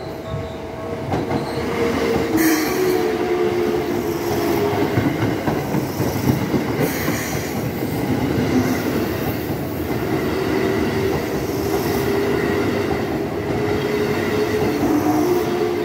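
Electric commuter train running over a level crossing: a continuous rumble of wheels on rail, with a wavering tone that drifts up and down over it.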